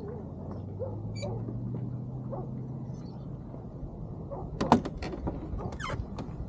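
Clicks and knocks of deck gear aboard a small racing sailboat, a cluster about four and a half seconds in and another near six seconds, over a steady low hum that fades about halfway through.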